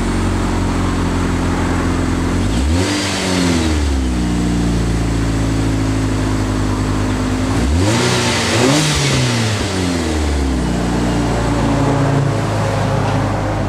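Stock exhaust of a Brabus forfour, whose 1.5-litre turbocharged four-cylinder engine is idling and is blipped: once about three seconds in, then twice in quick succession about eight seconds in. Each time the revs rise and fall straight back to a steady idle.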